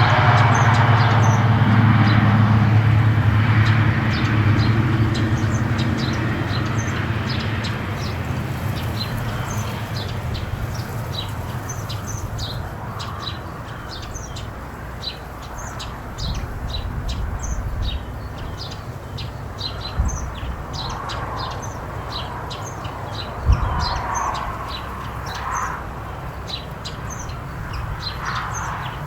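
Small birds chirping in quick, short high notes, several a second, over the low rumble of ocean surf, which is loudest at the start and dies away over the first several seconds.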